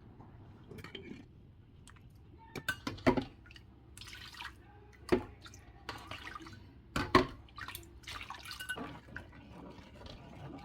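Kitchen work: water splashing and dripping, with several sharp knocks of utensils and dishes.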